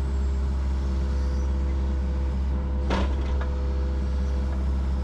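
Yanmar SV40 mini excavator's diesel engine running steadily as the arm and bucket are worked, a constant low drone with a steady hum. A short, sharp sound cuts through about three seconds in.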